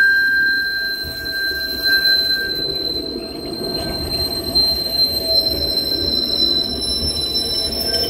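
Nottingham Express Transit tram 208, a Bombardier Incentro, moving through the stop with a low rumble and steady high-pitched wheel squeal. The lower squeal tone fades a couple of seconds in, and a higher one holds until near the end.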